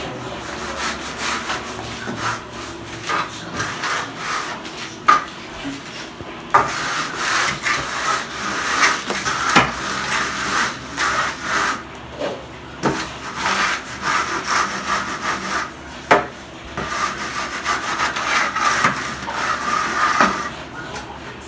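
Rough scraping strokes of a steel trowel working mortar against brickwork, repeated over and over, with a few sharp knocks of the tool.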